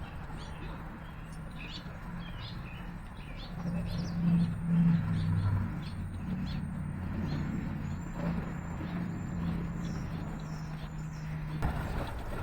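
Small songbirds chirping over and over in short, high notes, over the low hum of a vehicle engine that swells louder about four seconds in and then settles back.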